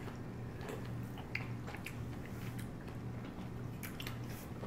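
Close-miked chewing of sushi rolls: wet, squishy mouth sounds with scattered small smacks and clicks, over a low steady hum.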